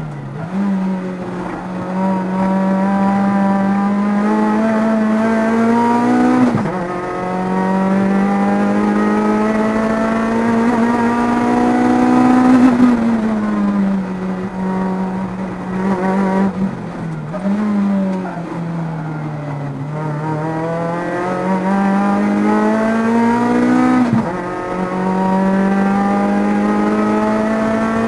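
Rotrex-supercharged Toyota 4A-GZE 1.6-litre four-cylinder engine of an MR2 AW11, heard from inside the cabin at race pace. Its pitch climbs steadily under full throttle and drops sharply when the throttle is closed for braking, about six, twelve and twenty-four seconds in.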